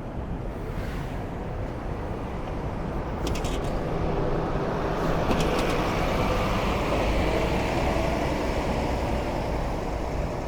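Busy city street traffic: cars and buses passing in a steady rumble that swells a little midway, with a couple of brief clicks.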